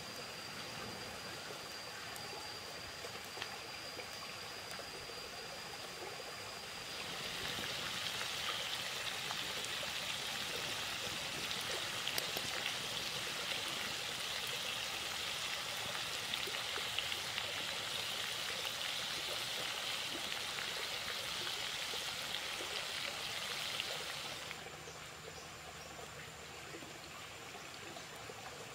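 Pork-stuffed bitter melon frying in oil in a pan, a steady sizzle with small crackles. The sizzle is loudest from about seven seconds in until a few seconds before the end, over the constant rush of a stream.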